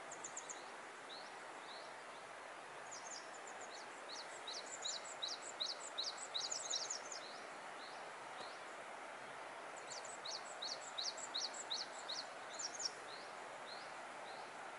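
Small birds chirping: rapid runs of short, high chirps in two busy spells, a few seconds in and again after about ten seconds. Under them is a steady faint hiss.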